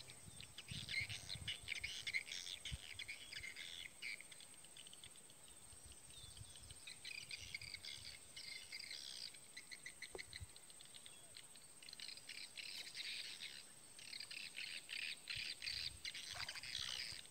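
Birds chirping in quick, high twittering runs that come and go.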